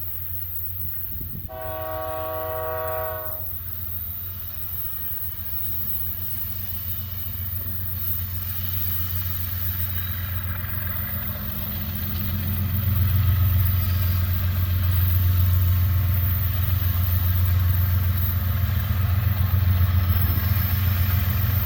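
Air horn of a BNSF diesel freight locomotive sounds once, for under two seconds, near the start. Under it the deep rumble of the heavy train's locomotives working up the mountain grade grows steadily, getting clearly louder about halfway through.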